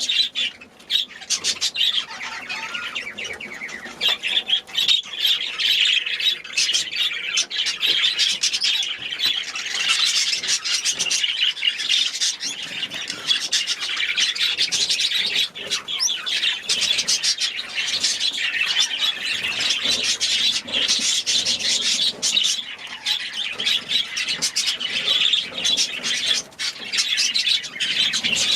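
A birdroom full of cage birds, budgies and Gouldian finches, chattering and chirping continuously, many quick calls overlapping.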